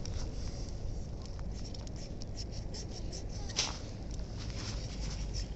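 A knife blade scraping in short, irregular strokes, with one longer scrape about three and a half seconds in.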